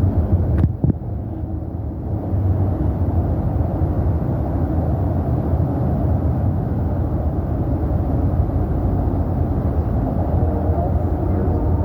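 Steady low rumble of wind buffeting the microphone while riding a bicycle, with a couple of sharp clicks just under a second in.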